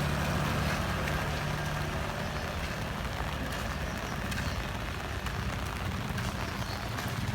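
Heavy rain falling steadily, with faint scattered drop ticks. A motor vehicle's low engine hum fades away in the first second and comes back faintly near the end.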